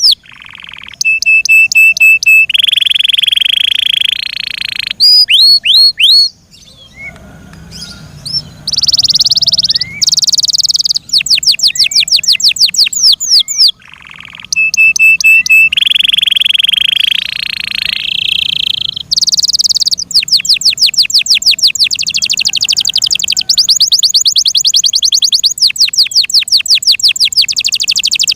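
F1 Yorkshire canary singing a long, loud song. It strings together fast trills of sharp falling notes, held whistled notes and buzzy rolls, with a brief lull about seven seconds in.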